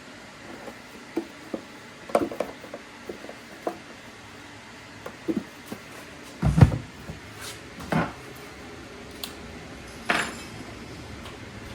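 Scattered clicks, knocks and clatter of parts being handled and fitted by hand, with a heavier thump about six and a half seconds in.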